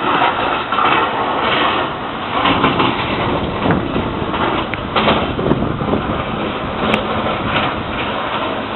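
Blizzard wind gusting against the microphone, a loud rushing noise that swells and eases.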